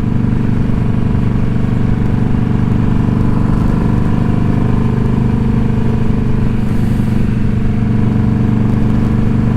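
Indian Scout Bobber's V-twin engine running at a steady speed, with no revving.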